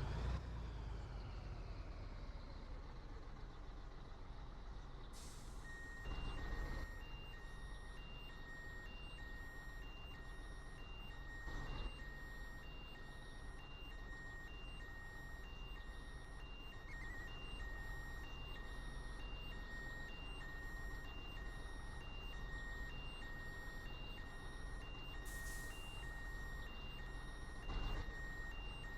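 Scania 113 truck's 11-litre six-cylinder diesel running at low speed, with a reversing alarm beeping steadily from about six seconds in. A few short hisses of air and occasional thumps come through along the way.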